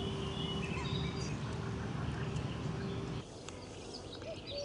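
Birds chirping in short high calls over a steady low outdoor rumble. The background drops a little about three seconds in.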